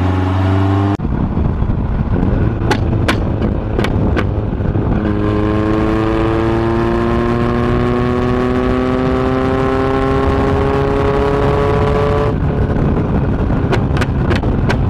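Turbocharged RB25 inline-six in a Nissan 240SX (S13), heard from beside its exhaust tips on the move: the engine pulls with a steadily rising pitch for about seven seconds, then cuts off abruptly. A few sharp pops come before and after the pull, and music stops about a second in.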